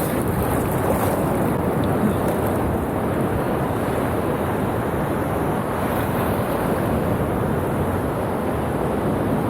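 Ocean surf rushing steadily as waves break.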